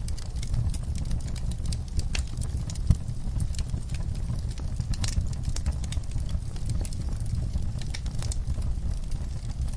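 Log fire crackling: irregular sharp pops and snaps over a steady low rumble of the burning wood, with one louder pop about three seconds in.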